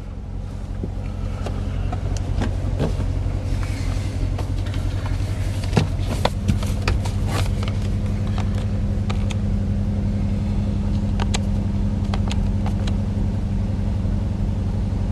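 Corvette Z06's supercharged 6.2-litre LT4 V8 idling steadily, heard from inside the cabin, with scattered clicks and taps of handling over it.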